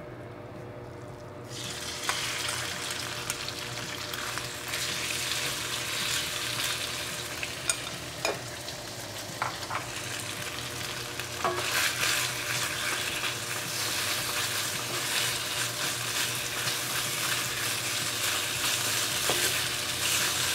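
Sliced chicken breast sizzling in hot oil in a wok. The hiss starts suddenly about a second and a half in, when the meat goes into the pan, and grows louder later on. A wooden spatula stirs the chicken, with occasional scrapes and taps against the pan.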